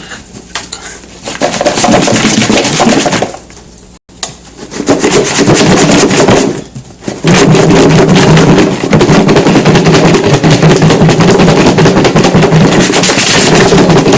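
Halved Brussels sprouts, chopped walnuts and bacon pieces rattling hard inside a lidded plastic Tupperware container as it is shaken to coat them in oil and seasoning. It comes in three bouts of shaking with short pauses between, the last and longest from about seven seconds in.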